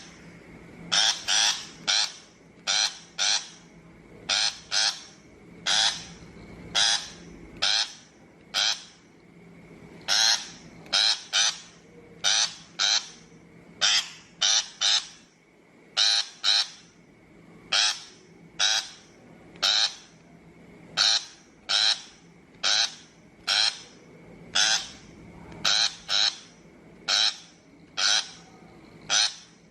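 Shrike giving short, harsh, rasping calls, singly and in quick pairs, about one to two a second, the kind of recording played as a lure to trap shrikes.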